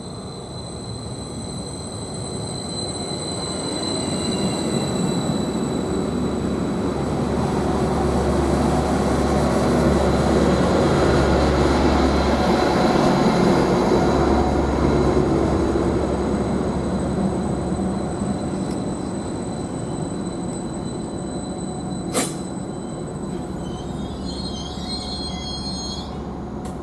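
Greater Anglia Class 755 bi-mode multiple unit, running on its diesel engines, pulling into the platform. Its rumble and low engine hum build up, are loudest about halfway through, then die down as it slows to a stop, with a sharp click near the end.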